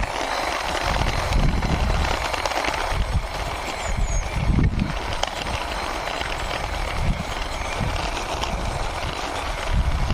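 Toy racing car pushed along by hand, its small plastic wheels rolling and scraping over the ground, with irregular low knocks and bumps.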